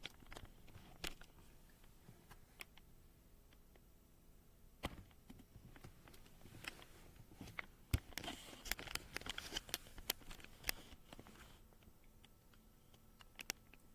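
Scattered clicks, taps and light rustling, thicker for a few seconds past the middle, as of an object being handled close to the microphone.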